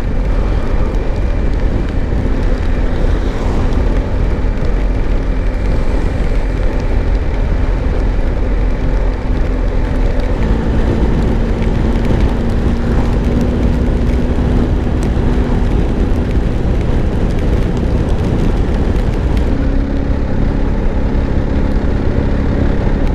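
Motorcycle engine running at road speed under a steady rush of wind noise on the microphone; the engine's pitch shifts about ten seconds in and again near the end.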